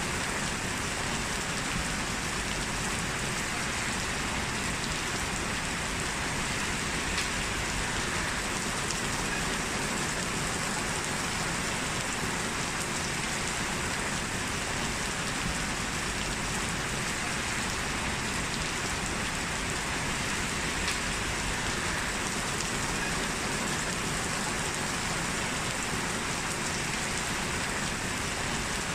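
Steady rain falling, an even patter with no let-up or thunder.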